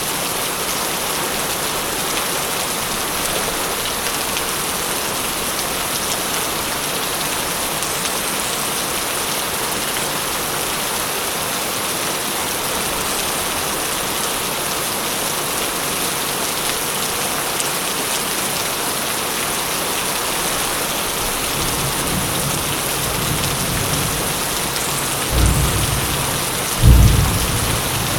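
Steady heavy rain falling, with a roll of thunder building near the end and two loud claps, the second the loudest.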